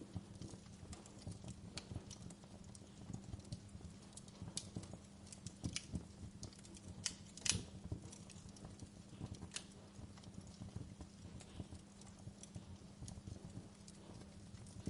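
Wood fire crackling: irregular snaps and pops, the loudest about seven and a half seconds in, over a low steady hum.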